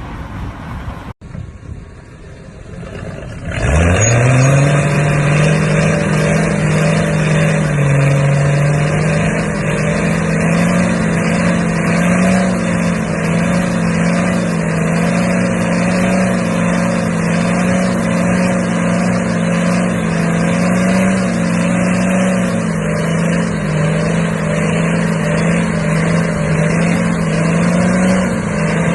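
Truck engine revving up sharply about three and a half seconds in, then held at a steady high pitch as a continuous drone.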